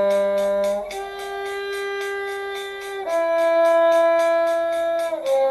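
Cello and backing track playing the shifting drill as long held notes: a low G ending about a second in, then a higher G, an E, and near the end a C, each held about two seconds. A steady beat ticks underneath.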